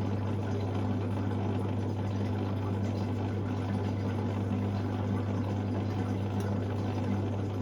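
Hoover Sportswear 1300 washing machine's pump running with a steady, unchanging hum, with water moving through it.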